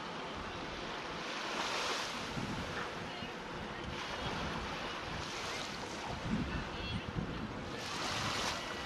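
Water rushing and splashing along a moving sailboat's hull, with wind on the microphone; the hiss of the water swells in surges about every three seconds.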